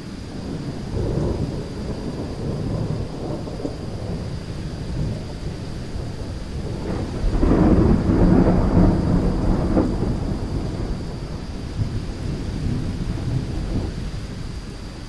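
Thunderstorm: rain falling steadily under rolling thunder, with a louder, longer peal of thunder from about seven to ten seconds in.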